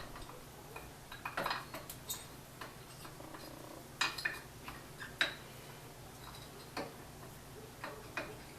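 Scattered light metallic clinks and taps as a worn brake pad and the brake caliper are handled, with a faint steady low hum underneath.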